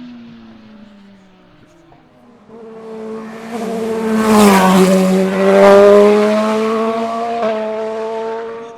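A hillclimb race car passing at speed under hard acceleration. Its engine note swells in from quiet to its loudest in the middle and dips in pitch as it goes by. The note then holds and climbs again, with a brief break for a gear change near the end, before falling away.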